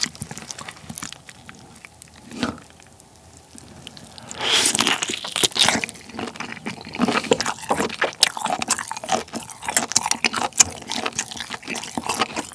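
Close-miked wet chewing and lip-smacking of boiled lobster meat dipped in the lobster's tomalley. It starts about four seconds in, after quieter handling of the shell, and goes on as a dense run of moist smacks and clicks.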